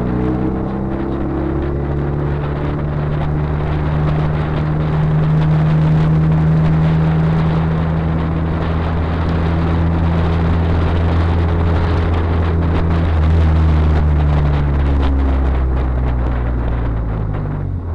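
Car engine running at a steady pitch under load, with road and wind noise; the engine note falls away as the car slows over the last few seconds.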